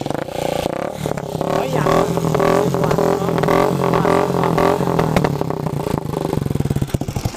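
Small motorcycle engine running hard at high revs, its pitch wavering up and down as the throttle is worked, easing off near the end.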